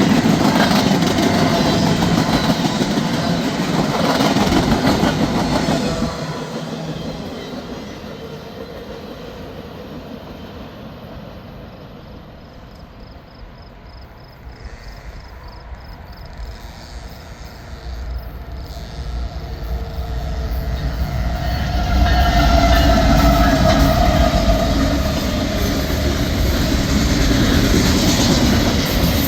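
A freight train rumbling and clattering along the rails. The noise fades away over several seconds, then builds again to a heavy low rumble with a few steady ringing tones over it.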